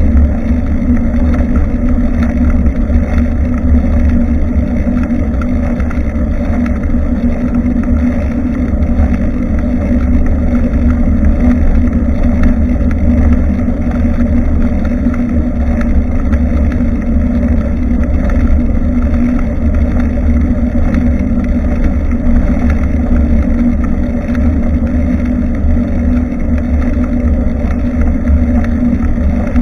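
Steady low rumble of wind buffeting the microphone of a Nikkei Extreme X6 action camera on a moving bicycle.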